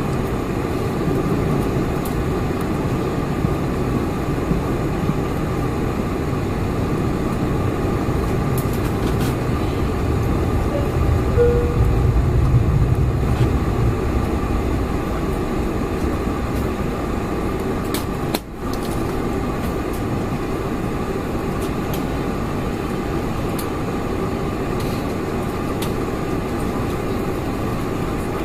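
Steady engine and air noise inside the cabin of a Boeing 747-400. A deeper rumble grows louder for a few seconds around the middle, and the sound briefly drops out about two-thirds of the way through.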